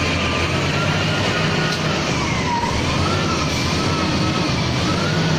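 A siren wail, its pitch rising and falling slowly about once a second, over a steady rushing noise and low rumble.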